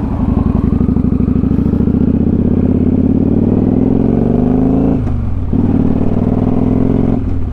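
Motorcycle engine accelerating, its pitch climbing steadily, then a brief drop at a gear change about five seconds in before it pulls again, with another shift near the end.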